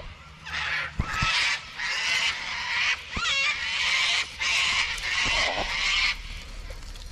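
A bird calling harshly: a run of about eight raspy screeches in quick succession that stops about six seconds in. A couple of soft handling knocks come about a second in.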